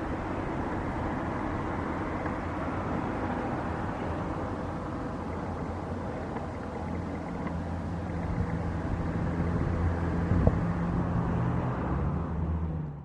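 Jet airliner engines running with a steady rush and a low hum, growing a little louder toward the end.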